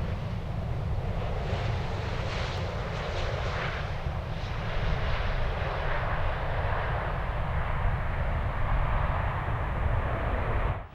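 Airbus A350-900's twin Rolls-Royce Trent XWB jet engines running, a loud steady roar over a deep rumble as the airliner passes. The sound cuts off suddenly near the end.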